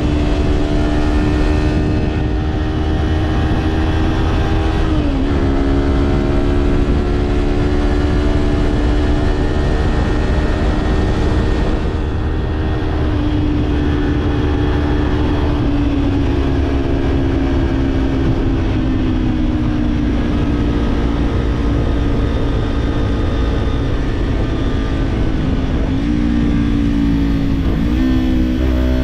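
Kawasaki parallel-twin motorcycle engine with a slip-on exhaust, pulling at steady revs on the road. The pitch drops sharply about five seconds in as it shifts up, eases down through the middle and dips twice quickly near the end. Low wind rumble is on the microphone.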